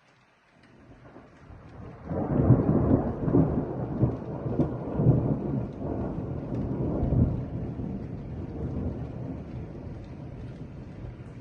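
A long roll of thunder: a low rumble swells up from near silence, breaks into loud rolling peaks about two seconds in for several seconds, then slowly dies away.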